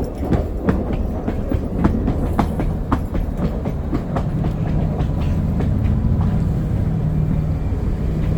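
Diesel-hybrid train running, heard from inside the car: wheels clicking over rail joints, with a steady low drone from the drive that grows more even after about four seconds.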